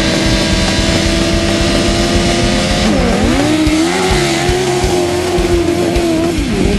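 Unimotorcycle engine running at steady high revs for about three seconds. Its pitch then dips sharply and wavers up and down as the throttle changes, and it falls away near the end.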